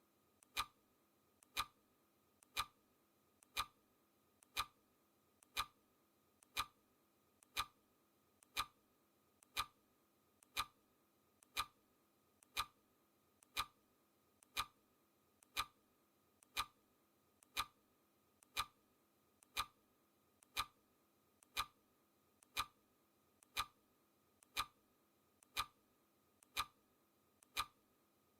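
Clock ticking sound effect: a crisp tick once a second, evenly spaced, each with a faint lighter click just before it.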